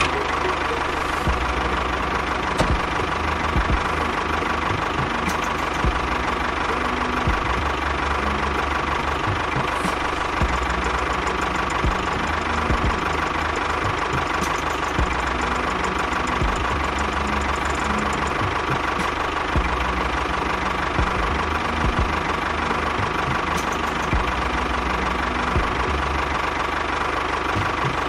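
Engine idling steadily with a regular low knocking beat.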